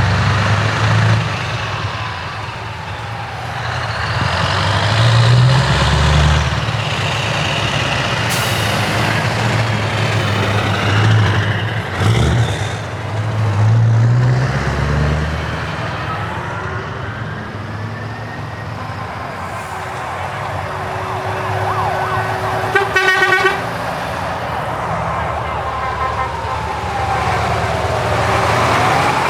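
Heavy truck diesel engines running and revving as trucks pass. Their pitch rises and falls several times, mixed with horn or siren tones that slide up and down. About two-thirds of the way in there is a short, fast-pulsing blast from a truck horn.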